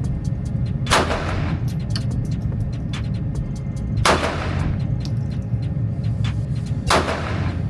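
Three pistol shots about three seconds apart, each sharp report followed by a short ringing tail. A steady low rumble runs underneath.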